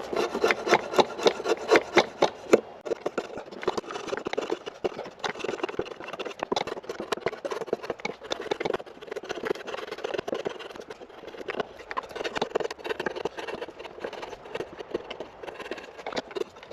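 A hand blade shaving chestnut wood in a run of repeated scraping strokes, with sharp clicks as each cut bites and lets go.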